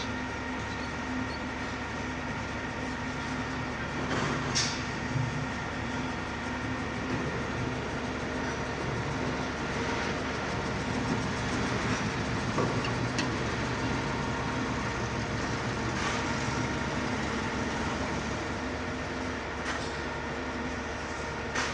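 Steady mechanical rumble with a constant hum and a few sharp knocks or clanks, the clearest about four seconds in and near the end.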